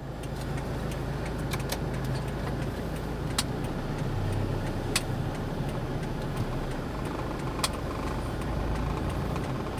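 A car running with a steady low engine hum and road noise, and a few sharp clicks scattered through it.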